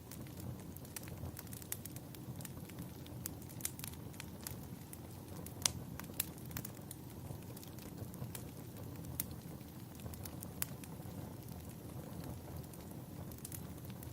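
Wood fire burning in a fireplace: a steady low rumble of flames with frequent irregular crackles and pops, one sharper pop a little before the middle.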